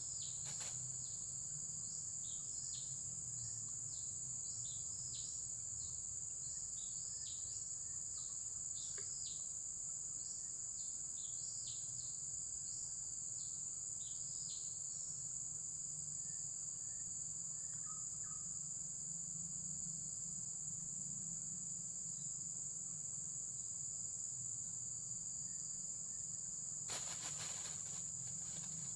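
Insect chorus, a steady high shrill drone that never lets up. Through the first half, short falling chirps from another animal repeat about twice a second, and a couple of sharp knocks come near the end.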